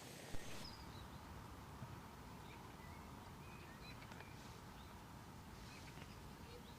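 Faint outdoor ambience with scattered distant bird chirps over a low steady background rumble. A single sharp knock about half a second in.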